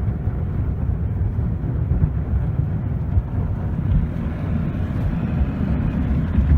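Steady low rumble of tunnel car-wash machinery, with its brushes and water working on the car body, heard from inside the car's cabin.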